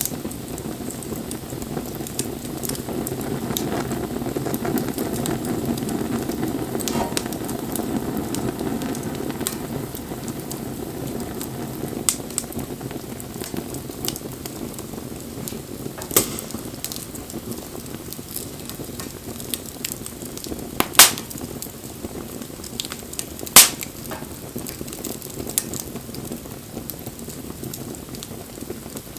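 Wood bonfire burning: a steady hiss and rush of flames with constant small crackles and a few sharp pops of burning wood, two of them loud in the latter half.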